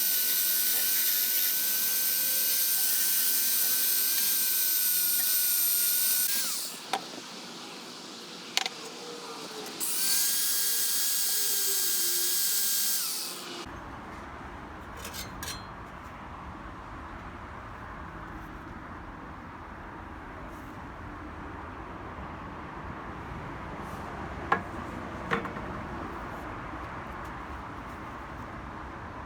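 A small high-speed power tool, such as a rotary tool or drill, runs steadily at a high pitch for about six seconds, stops, then runs again for about three seconds. After it stops, a quieter low rumble with a few sharp clicks remains.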